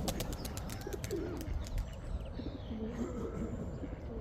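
Pigeons cooing: short, low, repeated calls. A quick run of sharp clicks comes in the first second or so.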